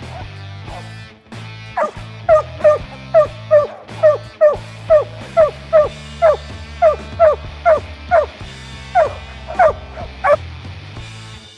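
Hunting dog barking in a steady run of short, sharp barks, about two or three a second, starting about two seconds in, over background music.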